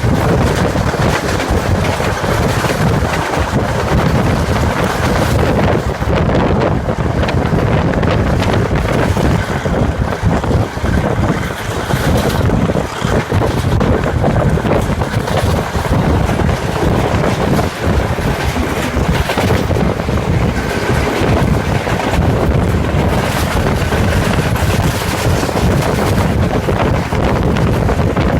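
Diesel-hauled train running, a steady loud rumble with heavy wind buffeting the microphone.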